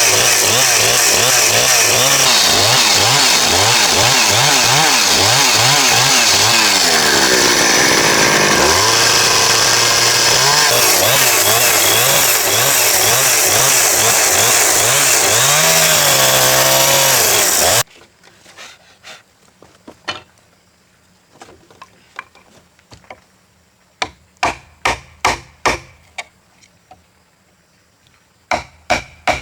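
A chainsaw cutting timber, its engine pitch rising and falling as it works through the wood. It stops abruptly about two thirds of the way in, and sharp knocks on wood follow, some in quick runs of four or five near the end.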